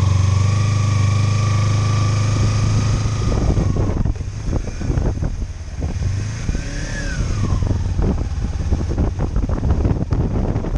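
2013 Kawasaki Ninja 300's parallel-twin engine running steadily under way, then dropping off about four seconds in as the throttle is closed and the bike slows. After that, wind buffets the chest-mounted microphone, with one short rise and fall of engine pitch a few seconds later.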